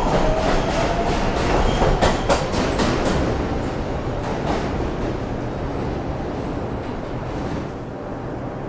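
New York City Subway R142/R142A train on the 4 line in motion at the station: a thin tone that rises slightly over the first second and a half, a few sharp clacks about two to three seconds in, then a steady running rumble that slowly fades.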